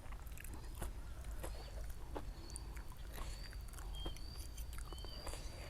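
Close-up mouth sounds of someone eating noodle soup: chewing, with scattered wet clicks and smacks. A thin steady high whine comes in about one and a half seconds in, with a few short chirps over it.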